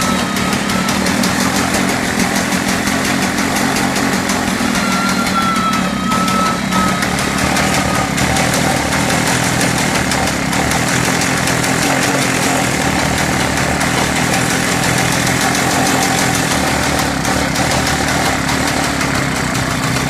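1961 Maico Blizzard motorcycle's two-stroke single-cylinder engine running steadily at idle on its first start.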